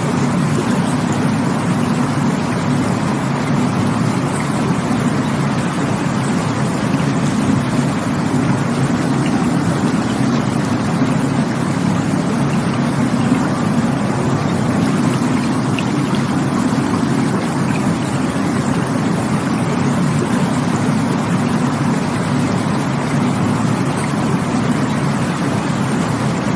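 Steady rushing water, an even, unbroken rush that is heaviest in its low tones.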